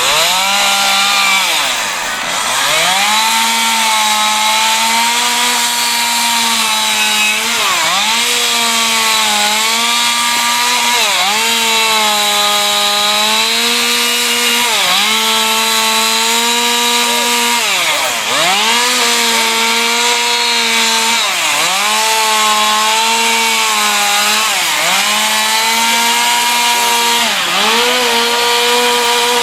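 Two-stroke chainsaw running at high revs, typical of chainsaw wood carving. Its pitch dips and recovers every second or two as the chain bites into the wood.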